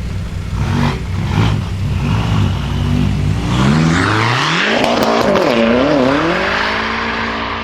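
BMW performance car's engine revving: several short blips, then a long climb about four seconds in. The pitch wavers at the top before it settles and holds high, with a loud rushing noise over it around the peak.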